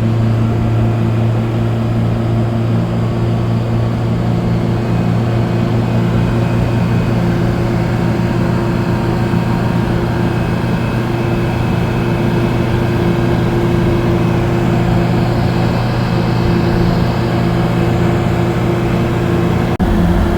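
Motorcycle engine running at steady cruising speed, a constant low drone at unchanging revs mixed with wind and road noise.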